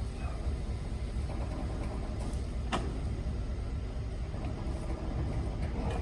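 Steady low rumble of a running engine, with one sharp click a little before the middle.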